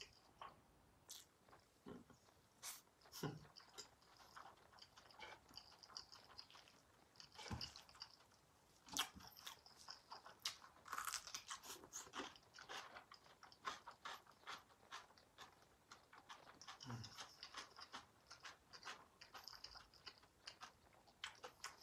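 Quiet, close-up chewing of crisp radish kimchi: a run of irregular wet crunches, with a few soft low mouth thumps among them.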